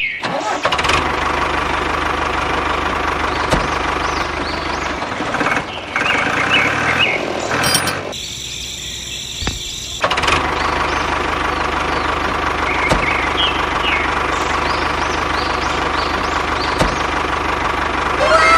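A DIY mini tractor's small motor running steadily, a continuous whine over a low pulsing hum. It drops away for about two seconds midway, then resumes. Birds chirp now and then.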